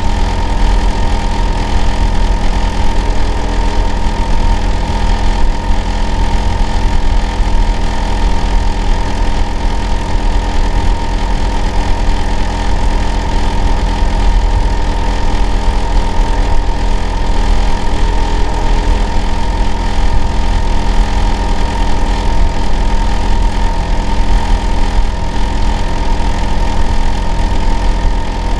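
Hitachi air-conditioner outdoor unit running in winter: a loud, steady hum with a strong low rumble and several constant tones, one high whine among them. This is the noise the neighbour calls abnormal and too loud.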